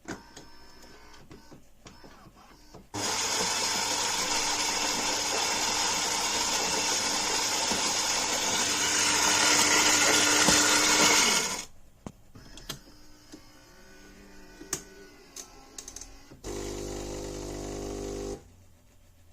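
Philips 5400 bean-to-cup espresso machine running. A loud, steady mechanical noise lasts about nine seconds and cuts off sharply, followed by a few clicks, then a lower buzzing hum for about two seconds near the end.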